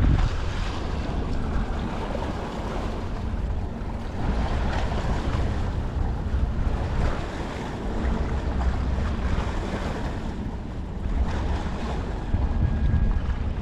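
Wind buffeting the microphone in gusts, with seawater washing against the shore.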